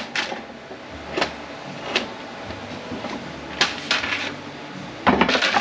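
Scattered knocks and clicks of metal transmission parts and tools being handled on a workbench during teardown of a ZF 9HP48 automatic transmission, with a louder cluster of clanks near the end.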